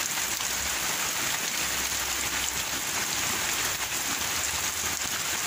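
Steady rain falling and pattering on surfaces, an even hiss of many drops that neither builds nor fades.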